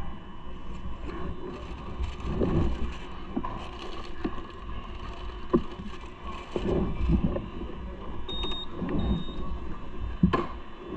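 Low rumble of riding along city streets, with scattered rattles and knocks and a short high beep about eight seconds in.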